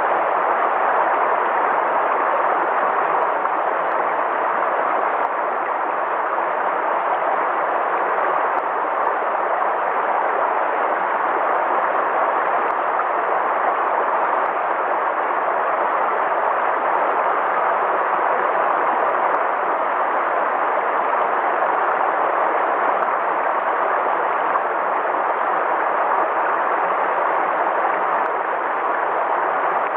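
River water flowing, a steady even rush of noise that doesn't change.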